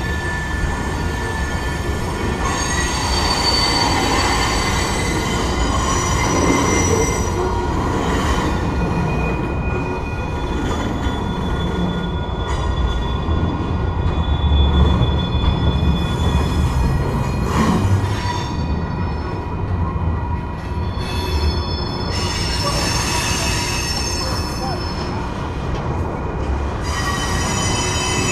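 Freight train's cars rolling past, the steel wheels squealing on the rail in several high, steady tones that fade in the middle and come back near the end, over a low rumble. A single sharp clank about two-thirds of the way through.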